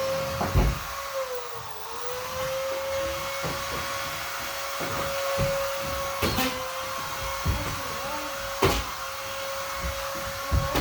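Vacuum cleaner running with a steady motor whine that dips briefly in pitch and recovers about two seconds in, with a few sharp knocks as it works.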